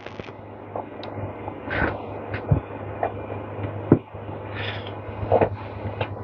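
Scattered light clicks and knocks of small metal parts of a small-engine electric starter motor being handled and fitted by hand, over a steady low hum.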